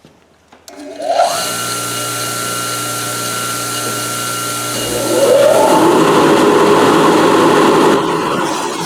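Bench-mounted wire-wheel and buffing-wheel motors switched on: about a second in, one motor spins up with a rising whine that settles into a steady run over a low hum. Around five seconds in, a second machine starts and spins up, and the sound turns louder and rougher.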